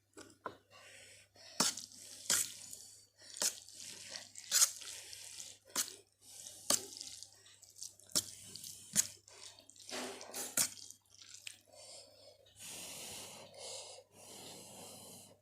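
Wet, sticky clicks and smacks of saucy spicy Maggi instant noodles, a dozen or so sharp ones spread through, with a steadier hissing stretch about two-thirds of the way in.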